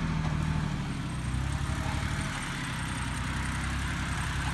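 Yanmar YM169D compact diesel tractor engine running steadily, with a slight shift in pitch about a second in.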